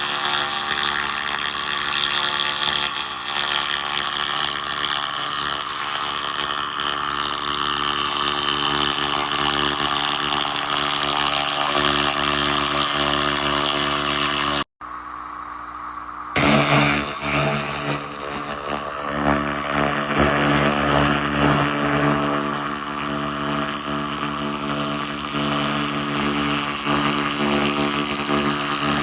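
SFX 2000 laser rust remover running while ablating rust: a steady hum with a hiss over it. About halfway through the sound cuts out abruptly, comes back quieter for a second or so, then returns at full level.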